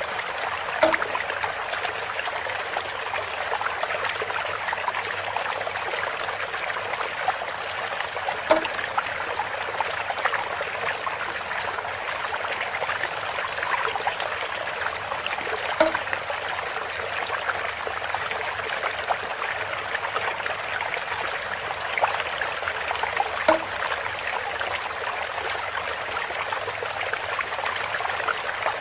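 Water trickling steadily from a bamboo spout, with a short sharper splash or tap about every seven to eight seconds, four times.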